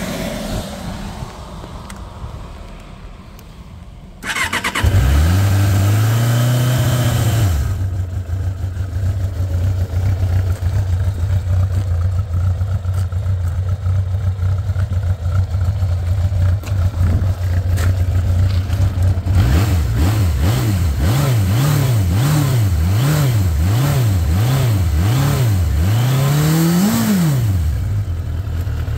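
1989 Suzuki Katana GSX600F's inline-four engine cranked on the starter about four seconds in, catching and running at a raised idle before settling to a steady idle. From about twenty seconds in the throttle is blipped about once a second, seven or eight times, ending with one higher rev that falls back to idle.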